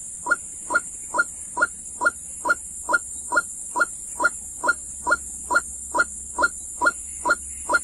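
A bird's short falling call, repeated with machine-like regularity a little over twice a second, over a steady high-pitched hiss.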